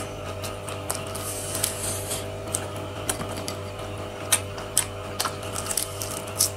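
A person chewing deep-fried floured shrimp close to the microphone, with many irregular sharp crunches and mouth clicks, over a steady low hum.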